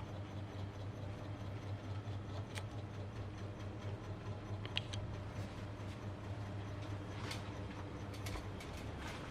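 Niga 28-inch mini ceiling fan running with a steady low motor hum, and a few faint light ticks.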